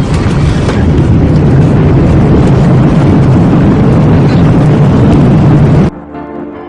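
Loud, steady jet-engine roar from a Ryanair Boeing 737-800, rumbling low. It cuts off abruptly about six seconds in, and soft piano music takes over.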